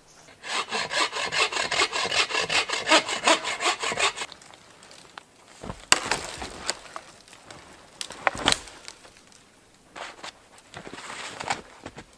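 Hand saw cutting into a dead, dry hardwood log in rapid, even strokes for about four seconds, then stopping. A few shorter scraping sounds follow, two of them with a sharp crack.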